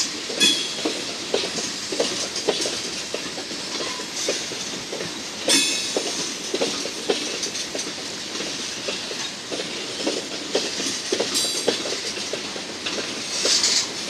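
Freight cars rolling slowly past on jointed rail, their wheels clicking and knocking, with one loud clank a little over five seconds in and brief high wheel squeals later on.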